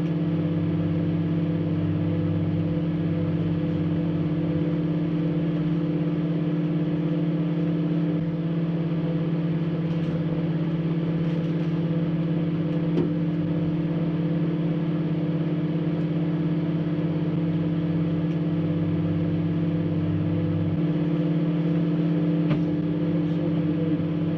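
Microwave oven running with a metal drink can inside: a steady electrical hum with a few faint ticks, and no sparking from the can.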